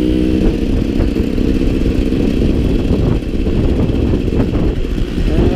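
Off-road motorcycle engine running as the bike is ridden along a trail, with a short steady engine note near the start under a dense rumble and scattered knocks and rattles.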